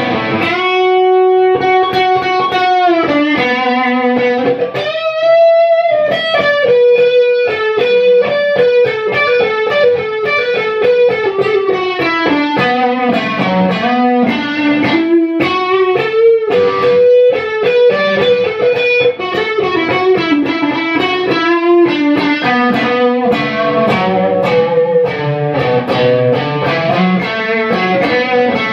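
Harley Benton ST-62 electric guitar playing a melodic lead line, with held notes and string bends.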